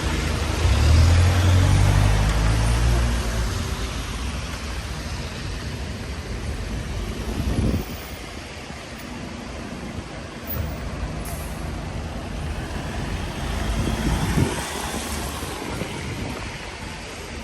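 A large motor vehicle's engine hums as it passes close by, loudest in the first few seconds and then fading into steady street traffic noise.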